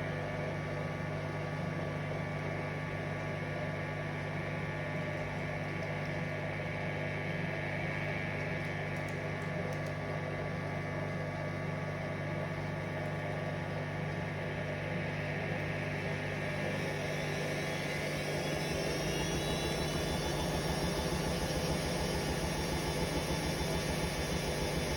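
Hoover Vision Dynamic washing machine on a spin cycle: a steady motor hum as the drum turns, then, about two-thirds of the way through, a rising whine and growing rumble as the spin speeds up.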